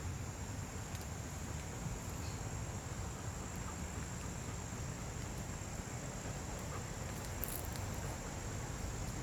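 Steady high-pitched trilling of crickets, with a low rumble underneath.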